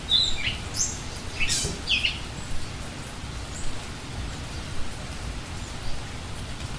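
A bird giving a few short, high calls in the first two seconds, some sliding down in pitch, over a steady hiss and low rumble.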